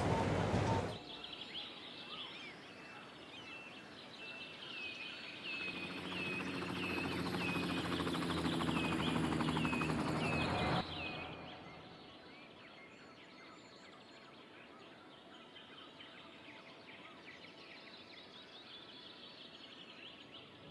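Small birds chirping over and over, short high chirps about twice a second. A steady low hum comes in about five seconds in and cuts off suddenly near the middle, leaving fainter chirping over a quiet outdoor background.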